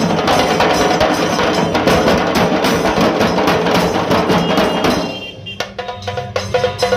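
Dhol tasa drumming: a dense run of rapid stick strokes on the tasa drums over dhol beats, which thins out about five seconds in to sparser strokes with a few ringing tones.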